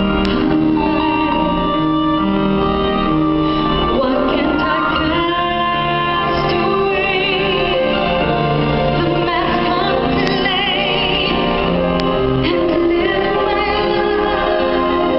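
Live pop ballad performance: a band accompanies a female singer holding long notes with a wide vibrato.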